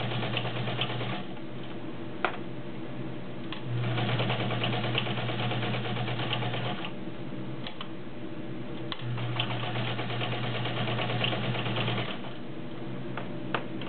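Kenmore 1207 heavy-duty all-metal sewing machine stitching through five layers of rubber-backed woven upholstery in three steady runs. The first run stops about a second in, the second runs from about four to seven seconds, and the third from about nine to twelve seconds. A few sharp clicks fall in the pauses between runs.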